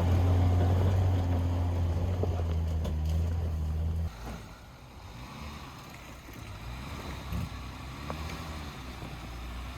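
Off-road 4x4 engine running with a steady low drone that cuts off suddenly about four seconds in, leaving a quieter engine idling.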